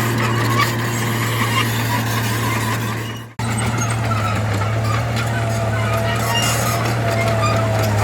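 Heavy diesel earthmoving machinery running steadily, a deep engine hum with a thin whine above it and scattered small clanks. The sound fades and drops out briefly about three and a half seconds in, then resumes at the same level.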